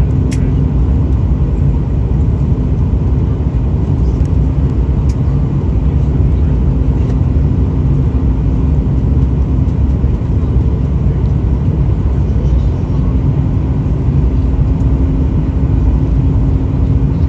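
Steady, loud low rumble of an airliner cabin during landing, with a constant hum over it and a few faint clicks.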